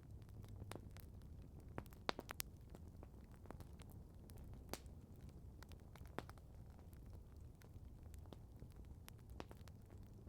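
Campfire crackling quietly: scattered sharp pops and snaps at irregular intervals, the loudest a quick cluster about two seconds in, over a faint low rumble.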